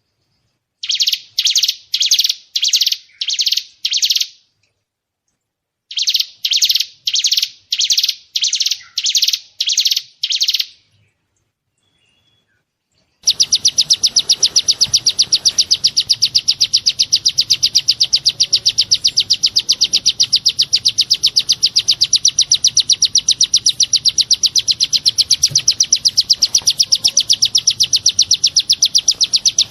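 Songbird 'tembakan' phrases. Two runs of loud, evenly spaced high chirps, about two a second, are separated by a short pause. After a second pause, about halfway through, a long, very rapid high trill starts and runs on without a break.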